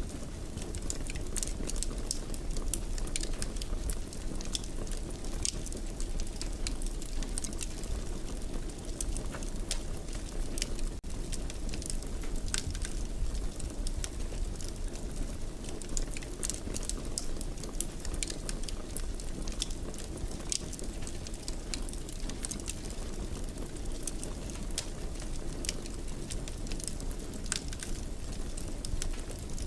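Fireplace fire crackling: many small, sharp pops scattered over a steady low rush.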